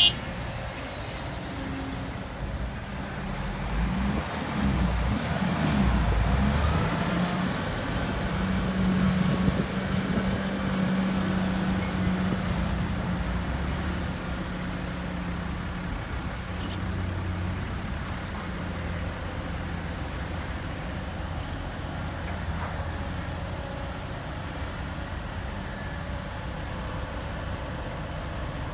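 Diesel engine of heavy earthmoving machinery running under load, swelling about four seconds in and easing again after a dozen seconds, with a faint high whine over the low drone.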